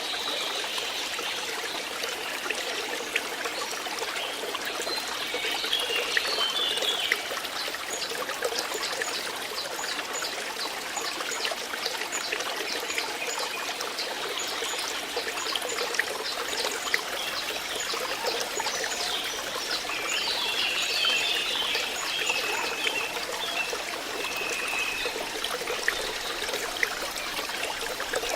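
Water running in a small stream, a steady trickling and babbling. Short high chirps come through twice, a few seconds in and again past the middle.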